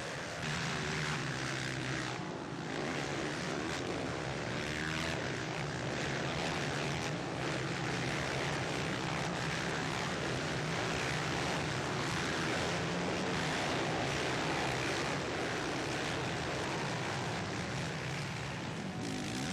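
Four-stroke motocross bikes racing, their engines running steadily with revs rising and falling.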